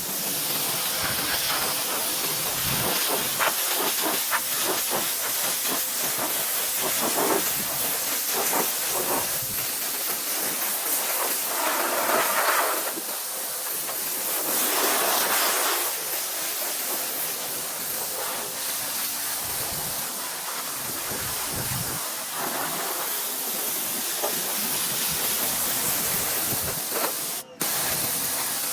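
Electric pressure washer's water jet spraying against vinyl siding: a steady, loud hiss that swells and eases as the spray moves over the wall, cutting out for a moment near the end.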